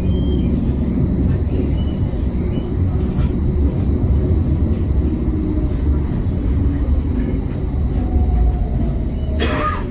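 Amsterdam tram running, heard from inside the car: a steady low rumble of wheels on rails. Over the last couple of seconds a faint whine falls in pitch, and a short burst of hiss comes near the end.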